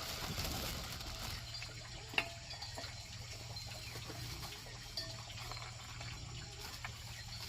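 Faint steady sound of water, with two light clicks about two seconds and five seconds in.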